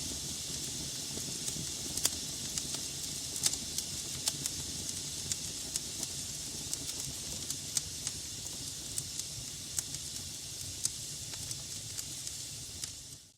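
Wood logs burning in a fireplace: a steady hiss and low rumble of flame, with frequent irregular sharp crackles and pops. The sound drops out briefly at the very end.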